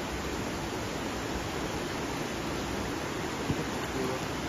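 Floodwater rushing: a steady, even noise.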